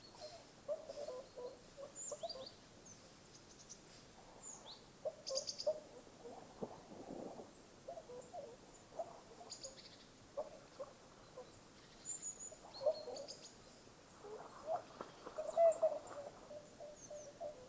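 Several birds calling intermittently: short low calls scattered throughout, with brief high chirps and trills above them.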